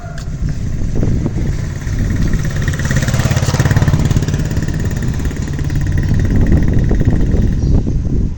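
A motor engine running steadily with a low hum, getting louder about a second in.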